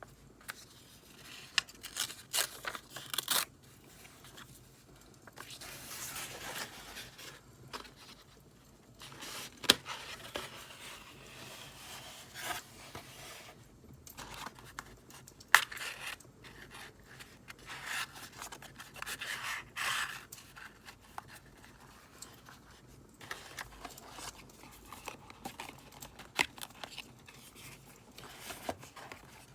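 Paper and stationery being handled for journal decorating: irregular rubbing, scraping and tearing, with a few sharp clicks, two of them standing out.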